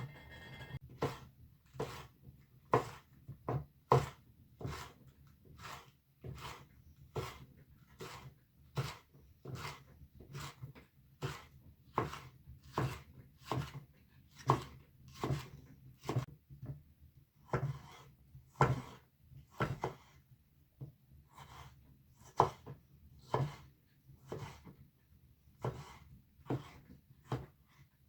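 Knife chopping on a wooden board: sharp, unevenly spaced strokes, about one every half second to second, with no speech over them.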